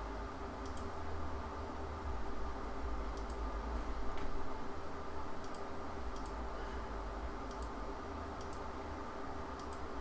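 Scattered clicks of a computer mouse, some in quick pairs, as parts of a model are selected in CAD software, over a steady low hum.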